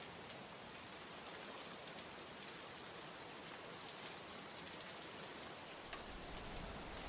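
Steady rain falling, faint, with scattered drops ticking on a surface. A low rumble comes in near the end.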